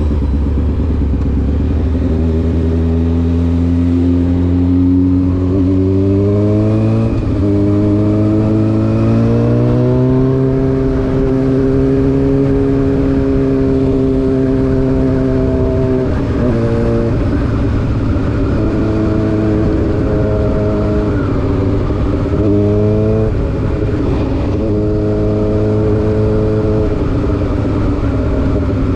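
Honda CBR600F4 inline-four engine through an SC Project exhaust, riding: it pulls up in pitch, drops briefly at an upshift about seven seconds in, then climbs again and settles at a steady cruise. In the second half the throttle is closed and reopened a few times, and a steady low wind and road rumble runs underneath.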